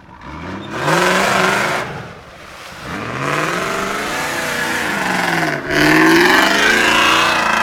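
Range Rover's V8 engine revving hard in three surges, its pitch rising and falling with each, the last surge the loudest.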